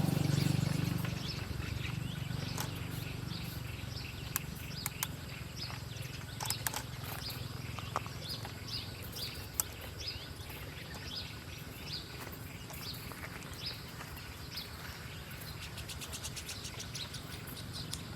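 Small birds chirping: many short, quick notes, each falling in pitch, repeated throughout, with a few sharp clicks and a steady low rumble underneath.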